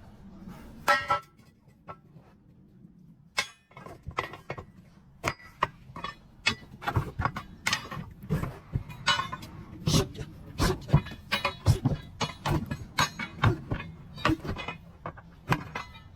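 An irregular series of sharp knocks and thuds, about one or two a second, thickest from about seven to fifteen seconds in, during heavy truck tyre work.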